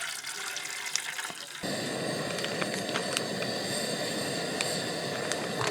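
Running water, a steady rushing hiss that starts abruptly about a second and a half in, after a lighter hiss with scattered clicks.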